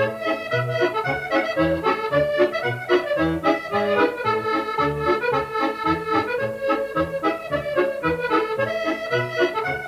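Accordion playing a tune: a melody in the treble over low bass notes that sound about twice a second.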